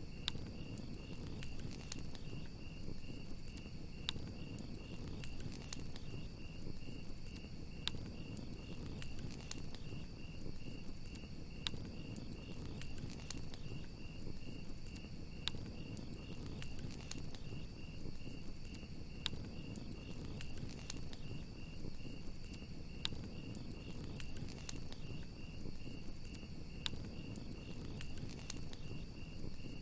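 Campfire crackling, with sharp pops scattered every second or so over a low steady rush, under a continuous trilling chorus of crickets.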